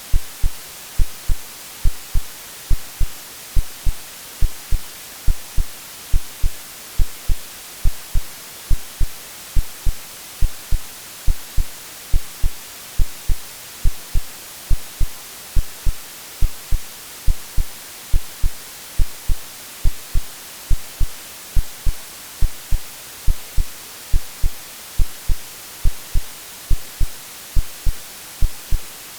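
A heartbeat sound, a steady low double thump a little more than once a second, mixed with continuous white noise hiss. It is meant to resemble what a baby hears in the womb.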